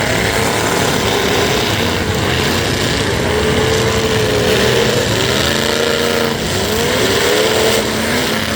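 Derby trucks' engines revving, the pitch climbing and falling again several times over a loud, constant engine din.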